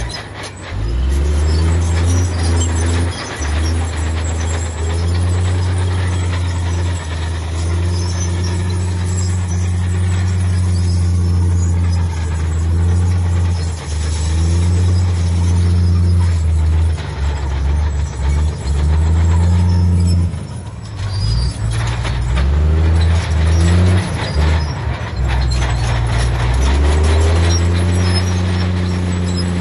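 Heavy diesel engine of earthmoving machinery working under changing load, its pitch rising and falling again and again, with a brief dip about two-thirds of the way through.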